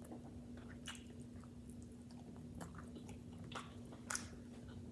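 Soft, wet chewing and mouth clicks of someone eating lobster close to the microphone, a few scattered clicks over a faint steady hum.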